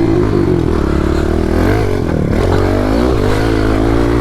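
Pit bike engines running, one revving up and down several times over a steadier low engine hum.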